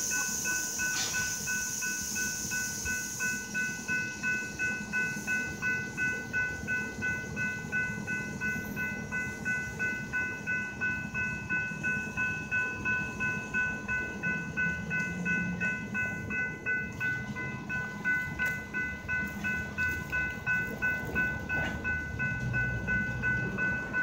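Freight train hopper cars rolling steadily past, the wheels clicking over the rail joints about twice a second over a low rumble, with steady high-pitched ringing tones running over it.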